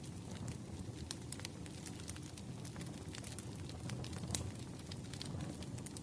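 Wood fire crackling: scattered sharp pops and snaps over a low, steady rumble of burning logs.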